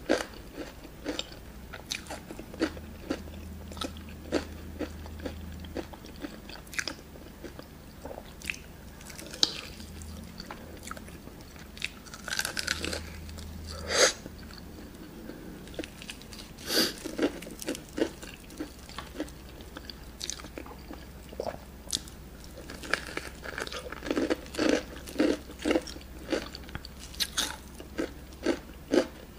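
Close-miked chewing and biting of a crunchy breaded fried chicken drumstick: irregular crisp crackles of the coating breaking between the teeth.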